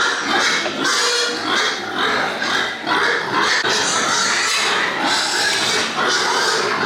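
Pigs grunting and squealing without a break.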